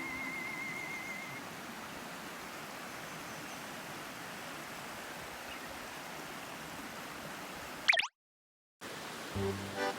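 Steady rushing of a forest stream. A short clip of ukulele music trails off about a second in. Near the end the sound cuts off abruptly with a click into a moment of dead silence, then music begins.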